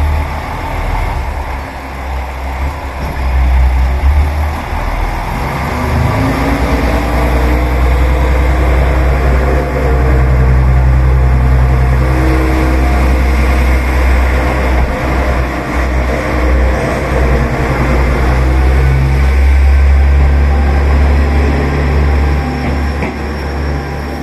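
Diesel railcar pulling out of a station, its engine's low rumble swelling and rising in pitch as it accelerates, then holding steady under load.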